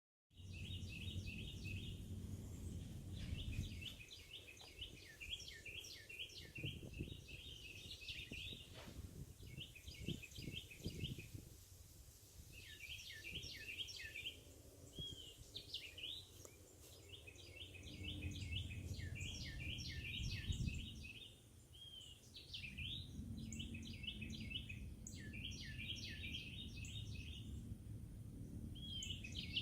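Songbirds singing, a burst of quick high chirping notes every few seconds, over a low rumble that swells and fades.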